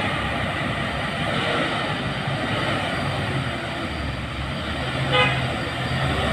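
Heavy diesel truck engine running steadily under load on a climb, with a short horn toot about five seconds in.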